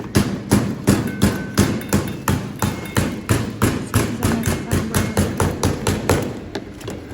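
Meat mallet pounding chicken breast flat on a board, a steady run of thuds about three or four a second.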